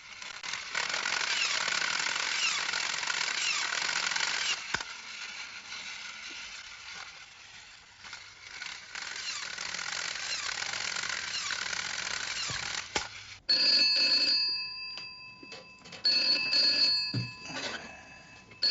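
A loud, steady high hiss, then, about thirteen seconds in, a telephone starting to ring in repeated bursts.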